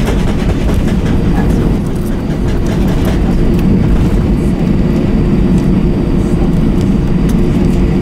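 Airbus A321 cabin noise while rolling on the ground: a steady low rumble from the IAE V2500 engines and the wheels on the pavement, with light rattles and clicks from cabin fittings.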